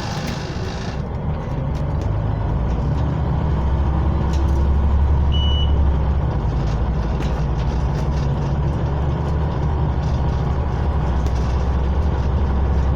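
Scania OmniCity bus heard from inside the cabin while under way: a steady low engine drone that builds louder over the first few seconds as the bus picks up speed. A brief high beep sounds about five seconds in.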